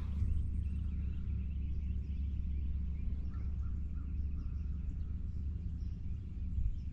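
Outdoor morning ambience: a steady low rumble of breeze on the microphone, with faint scattered bird chirps over it.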